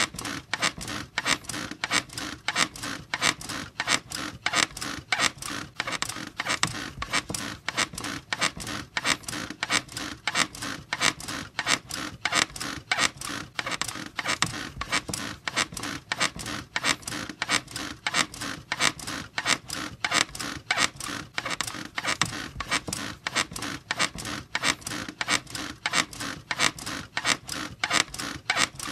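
A bed squeaking over and over in a steady, even rhythm.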